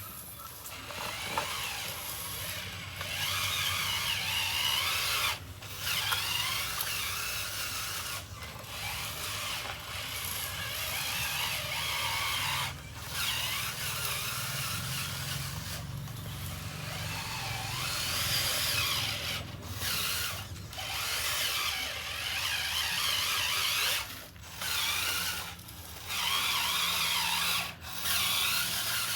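Small electric motors and gearboxes of radio-controlled construction models whirring, stopping and restarting every few seconds.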